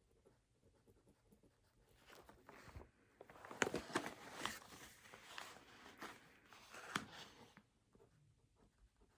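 Faint scratching of a pen writing on paper, a run of quick strokes with a few sharper clicks, busiest from about two to seven and a half seconds in.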